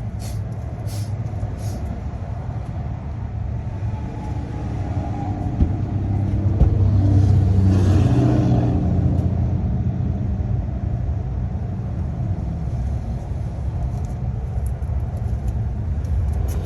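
Steady low rumble of road traffic, with a vehicle passing that swells loudest about eight seconds in and then fades. A few light clicks in the first two seconds.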